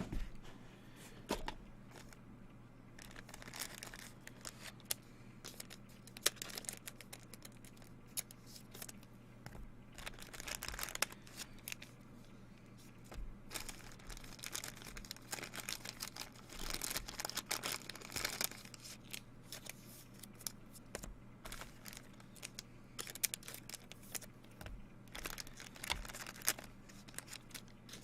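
Trading card pack wrappers being torn open and crinkled, with cards handled, in irregular short rustles and crackles over a faint steady low hum.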